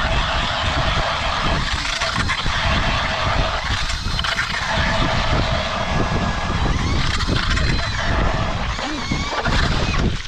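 Powered ice auger boring through thick lake ice, a steady motor whine over the grinding of the cutting head, stopping abruptly at the end.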